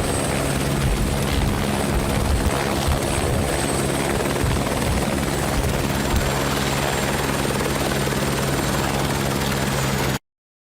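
Helicopter running close by: steady rotor and engine noise with a thin high turbine whine, cutting off suddenly about ten seconds in.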